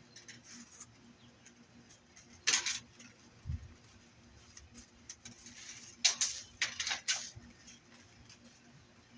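Scrap metal being handled: a few short scraping, clattering bursts, the loudest about two and a half seconds in and a cluster around six to seven seconds in, with a dull thump in between.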